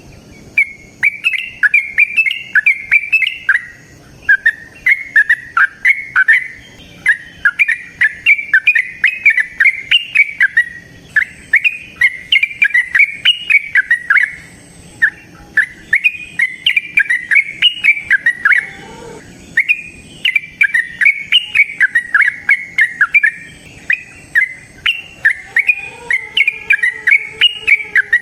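Yellow-vented bulbul singing its long, rapid bubbling song: phrases of quick chattering notes, each a few seconds long, repeated with short pauses between.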